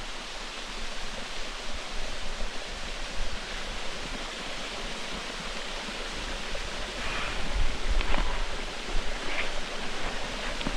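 Steady rushing of water from a small waterfall, an even hiss with a few faint knocks and low bumps near the end.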